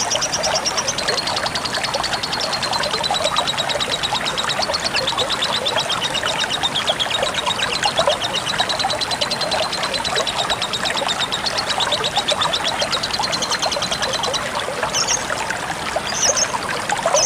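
Lovebird chattering in a fast, unbroken trill over water trickling and splashing steadily. In the last few seconds the trill stops and a few short, separate high chirps follow.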